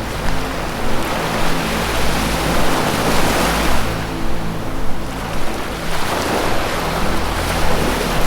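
Ocean waves washing in, with one swell building to a peak about three seconds in. Under them run low, sustained music tones that shift to a new chord every second or two.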